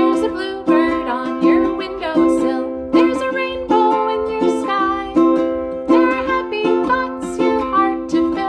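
Chords strummed on a stringed instrument in a steady rhythm, about one strum every three quarters of a second, accompanying a children's song.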